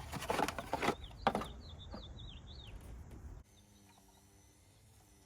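Clicks and knocks of a new ignition coil being handled and pressed down into the spark plug well, followed by a quick string of short, high, falling squeaky chirps. Near the end the sound drops suddenly to a faint steady hum.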